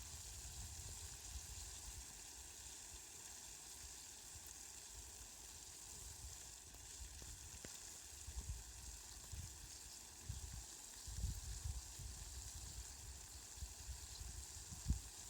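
Steady hiss of falling rain, with faint low rumbles coming and going in the second half.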